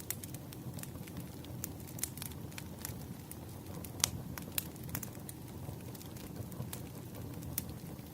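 Wood campfire burning: a low, steady rush of flames with scattered sharp crackles and pops from the burning logs, one louder pop about four seconds in.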